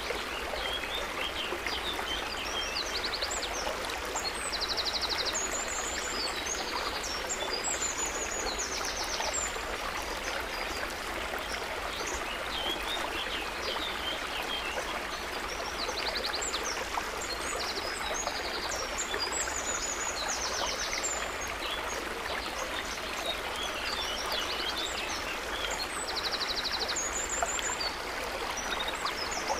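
Steady trickle of gently flowing water, with many small birds chirping and trilling high above it throughout.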